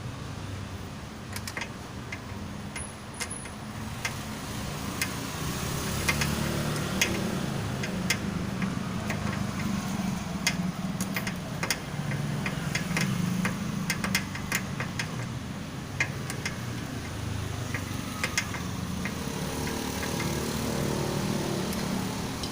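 Sharp metallic clicks and taps of hand tools and parts being handled during motorcycle engine assembly, over a low engine hum that swells a few seconds in.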